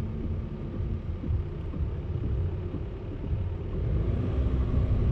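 Low, steady rumble of a moving vehicle's engine and road noise, with a faint steady hum that steps up in pitch about four seconds in.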